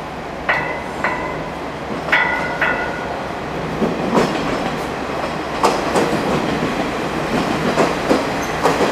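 Train running noise: a steady rumble with sharp metallic clacks that ring briefly. Two pairs of clacks come about half a second apart in the first three seconds, with more spread through the rest.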